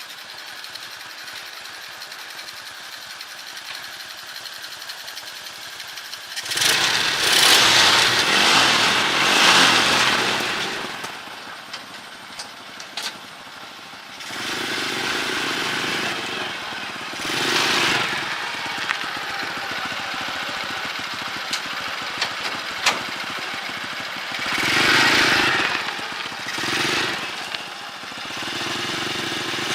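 The restored engine of an old Honda tricycle running, blipped up to higher revs in several swells of one to three seconds, easing back between them.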